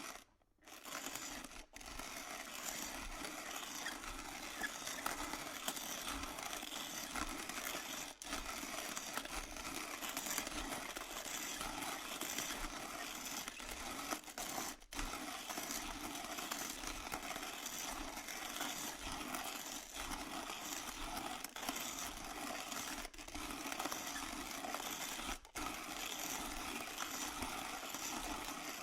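Electric burr coffee grinder grinding beans, a steady gritty whirring broken by a few momentary gaps.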